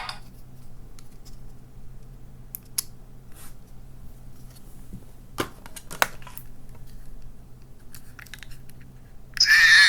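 Small plastic capsule toys being handled: scattered clicks and taps. Near the end, a toy's electronic sound chip starts playing a tune.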